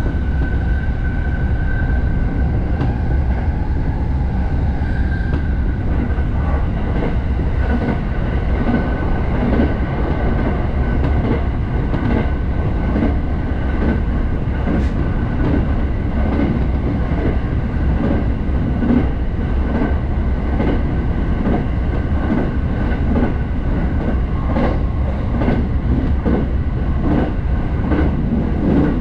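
Interior of a moving Sobu Line Rapid electric train: a steady low rumble of the running train, with a high steady whine that fades about five seconds in, then a regular clickety-clack of the wheels passing over rail joints.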